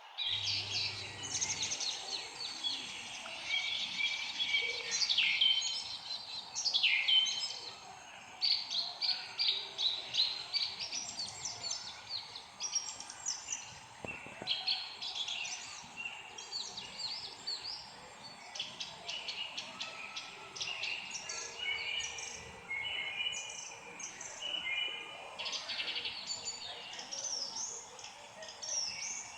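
Several songbirds chirping and singing at once, with busy overlapping trills and quick falling notes, over a faint steady background hiss.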